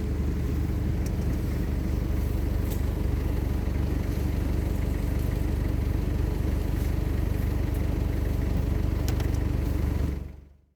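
A vehicle engine running steadily, a constant low rumble, with a few faint ticks on top; it fades out near the end.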